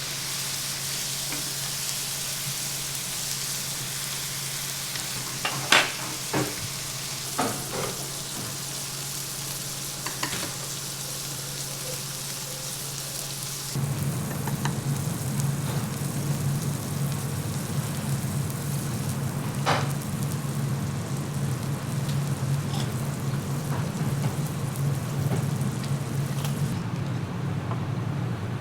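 Hissing sizzle, like food frying in a pan over a camp stove, with a few sharp clicks about six to ten seconds in. About 14 seconds in the sound changes abruptly to a louder steady low hum with much less hiss.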